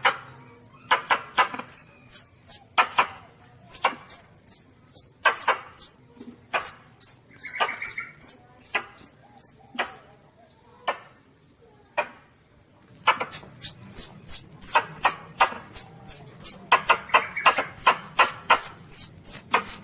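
Young Asian palm civet (luwak) calling: a rapid string of short, high squeaks, many falling in pitch, with a pause of about three seconds midway before the calls resume.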